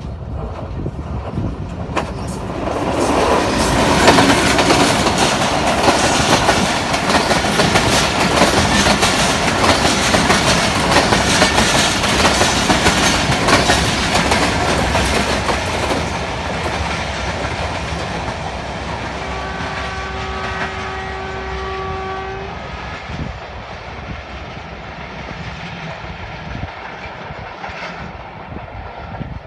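Millat Express passenger train running across a railway bridge: loud rolling wheel and carriage noise with rail clatter that builds over the first few seconds, holds, then fades as it moves away. About two-thirds of the way through, the locomotive sounds one steady horn blast of several seconds.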